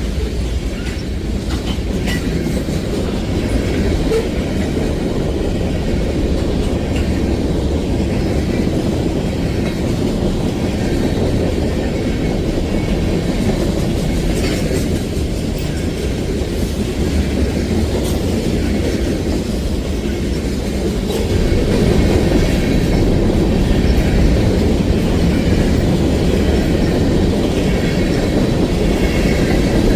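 Freight train rolling past, a steady rumble of cars and wheels on the rails that grows a little louder about two-thirds of the way through.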